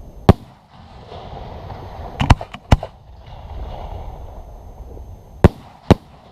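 Aerial fireworks bursting in a string of sharp bangs: one just after the start, a quick cluster of three or four about two to three seconds in, and two more near the end.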